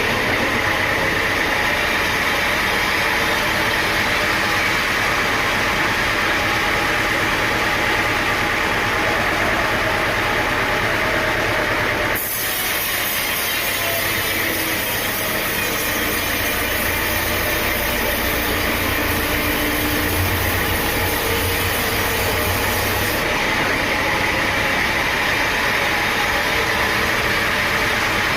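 Sawmill machinery running steadily: a loud, even mechanical din of engine and saw. The tone shifts suddenly about twelve seconds in and again near the end.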